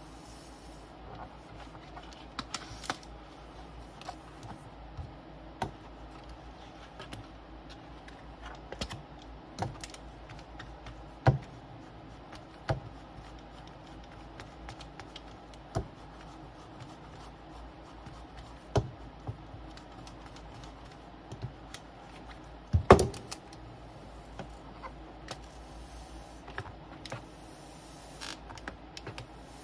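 Scattered light clicks and taps of small tools and parts being handled on a workbench, one every second or two, with a louder knock about three quarters of the way through, over a steady low hum of room tone.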